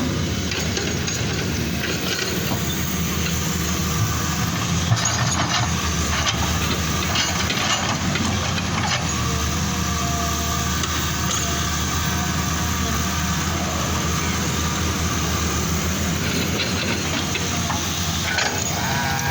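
A large diesel engine running steadily, with a few scattered knocks and clatters over it.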